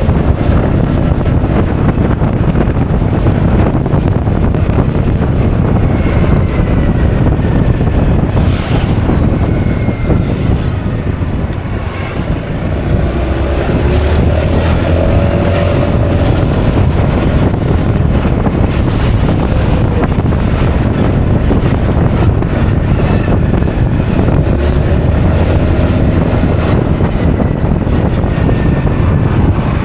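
Wind buffeting an action camera's microphone while riding a Honda Forza 350 scooter, with road and engine noise underneath. The rush eases briefly about twelve seconds in.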